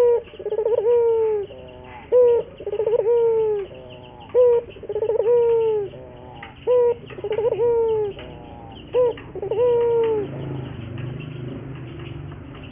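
Ringneck dove (burung puter) cooing repeatedly: about five phrases, each a short sharp note followed by a longer rolling coo that falls at its end. The cooing stops about ten seconds in.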